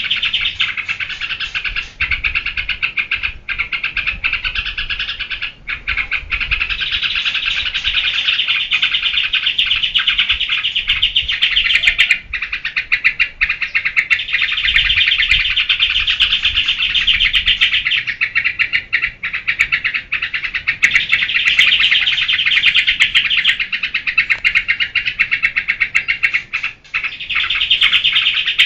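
Yellow-vented bulbul (trucuk) singing a fast, nonstop run of chattering notes, the 'ngebren' style prized by bird keepers, broken only by a few brief pauses.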